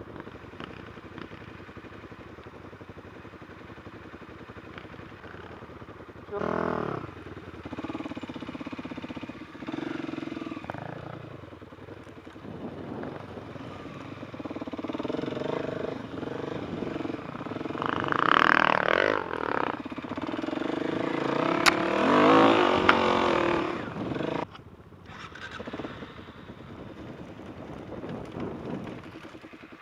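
Enduro dirt bike engine running and revving as it rides, with a sharp blip of throttle about six seconds in and louder, repeated revving in the second half before it eases off near the end.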